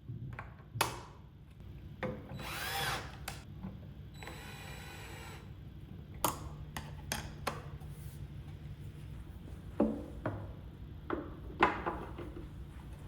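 Power drill/driver running in two short bursts, the first with its whine rising and falling as the trigger is worked, along with sharp clicks and knocks of parts being handled. This is typical of screws being driven while a router is mounted into a router table.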